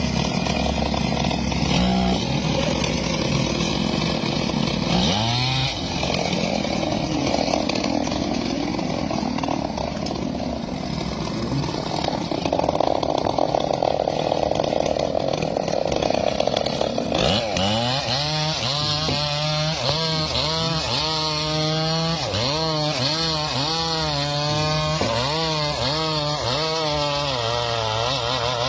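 Two-stroke chainsaw running while cutting wood. About two-thirds of the way through, its engine pitch starts swinging up and down over and over as the throttle is worked.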